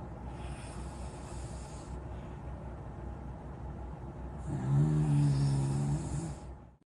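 A corgi snoring: a breathy hiss of breath in the first two seconds, then one long, deep, pitched snore starting about four and a half seconds in and lasting about two seconds.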